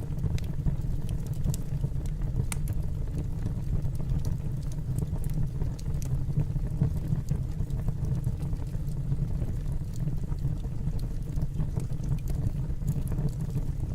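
Fire burning in a fireplace: a steady low rush with scattered sharp crackles and pops.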